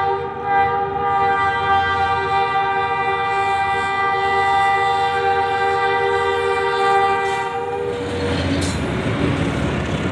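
Diesel-electric passenger locomotive sounding one long, steady horn blast as it approaches, cut off about eight seconds in. Then comes the noise of the locomotive's engine and its wheels clattering over the rails as it runs past close by.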